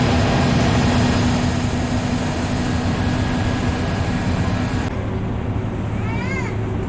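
Bus engine and road noise heard from inside the cabin while driving, steady, with a low hum. About five seconds in, the high hiss drops suddenly. Shortly after, a brief pitched tone rises and falls.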